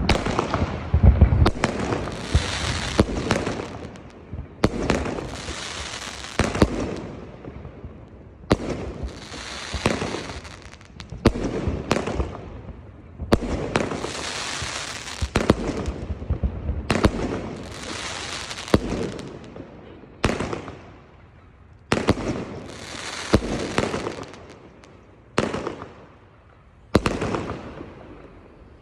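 New Year's Eve fireworks going off in a steady barrage. There is a sharp bang every two seconds or so, and each is followed by a long hissing, crackling tail that dies away over a second or two.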